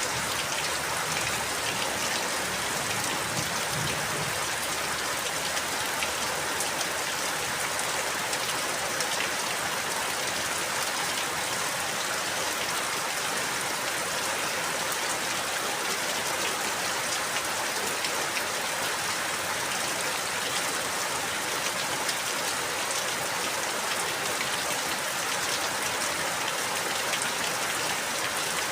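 Steady rain, an even hiss of falling rain dotted with many small drop ticks.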